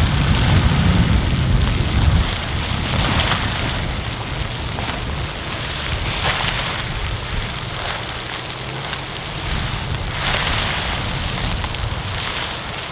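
Steady hiss of heavy snow falling, with gusts of wind swelling and fading every few seconds; a low wind rumble dies away about two seconds in.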